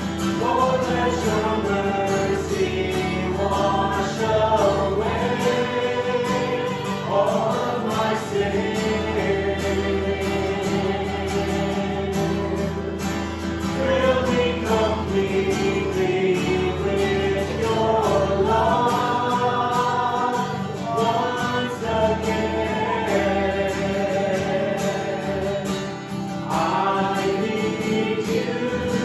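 Congregational worship song: voices singing a sustained melody together over strummed acoustic guitar.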